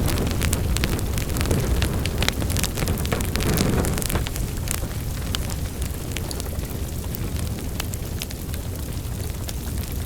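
Wood fire crackling in a fireplace: frequent sharp pops and snaps over a steady low rumble of burning. The pops come thickly in the first half and thin out after about five seconds.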